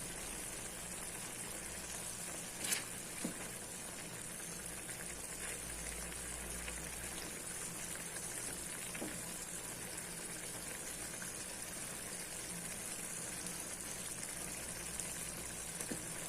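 Chicken bistek cooking in a pan, with a steady bubbling sizzle. A couple of sharp clicks come about three seconds in, and a few fainter ones follow later.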